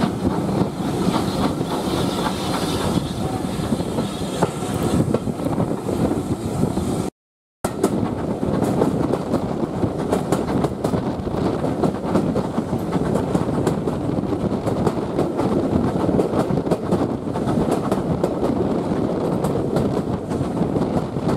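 Steam-hauled heritage train running, its wheels clicking steadily over the rail joints, with a hiss in the first few seconds. The sound cuts out for a moment about seven seconds in.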